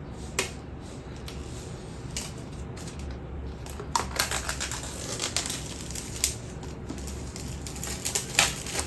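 Scattered clicks and taps of hands handling an iPad box and its packaging, with a few sharper clicks over a faint low hum.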